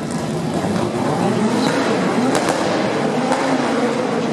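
Car engine running, its pitch wavering up and down, with a few sharp pops about two to three seconds in.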